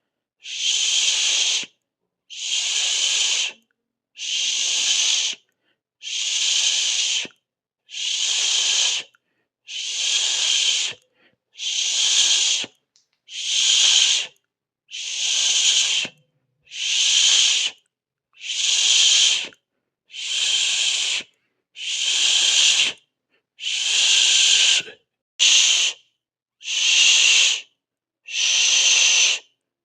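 A person hissing a drawn-out 'sss' through the teeth over and over: about sixteen hisses of just over a second each, separated by short pauses, with one shorter hiss near the end.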